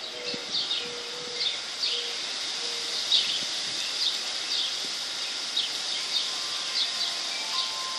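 Backyard birds chirping, several short calls a second, over a steady high hiss. A low note repeats a few times in the first few seconds, and faint ringing tones come in near the end.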